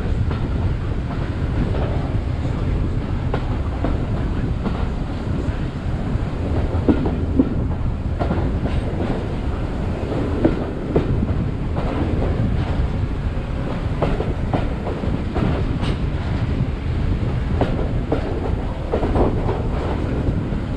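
Railway carriage running along the track: a steady low rumble from the wheels, with scattered clicks and knocks as they pass over rail joints.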